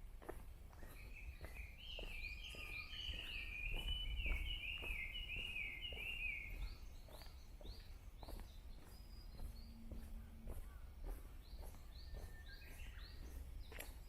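Footsteps along a park path, with a songbird singing a run of repeated notes for several seconds, then scattered shorter calls later on. A low rumble sits underneath.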